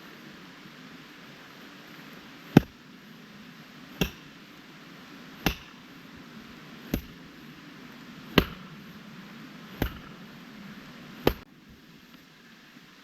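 Seven evenly spaced, sharp strikes of a hand tool, about one every second and a half.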